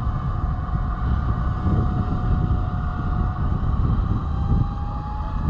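Electric winch motor running under load with a steady whine that climbs slightly in pitch near the end, over a low rumble.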